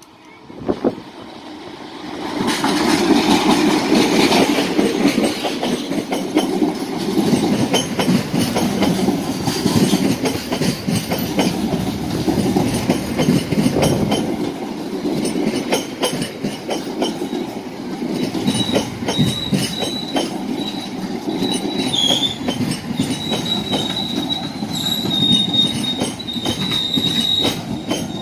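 Diesel-hauled passenger train passing close by. The locomotive comes up loud about two seconds in, then a long run of coaches rumbles over the rails with the clack of wheels on rail joints, and a thin high wheel squeal holds through the second half.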